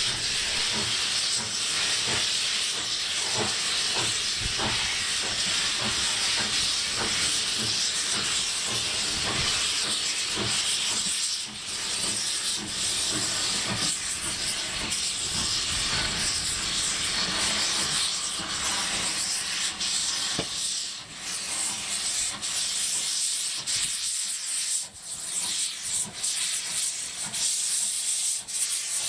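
Steam locomotive hissing steadily as steam escapes. The hiss grows weaker and more uneven in the last several seconds.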